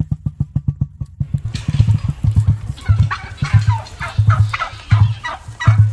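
Emu drumming: a deep, rapid pulsing thrum of about six beats a second, with louder booming swells every half second or so from about a second and a half in, over some irregular higher crackling noise.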